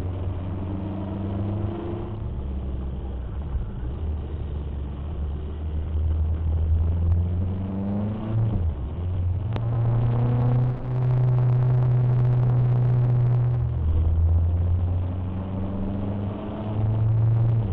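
Motorcycle engine running under way, its pitch rising as the revs climb about halfway through, then holding a higher steady note for a few seconds before dropping back. A single sharp click about ten seconds in.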